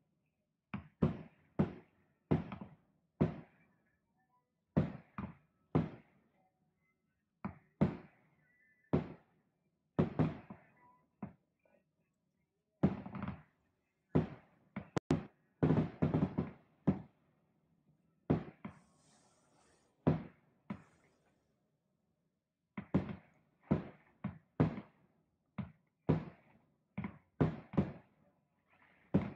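Fireworks display: an irregular run of thumps and bangs from shells launching and bursting, often in quick clusters of two or three. Partway through there is a short hissing crackle of burning stars, then a brief lull before the bangs resume.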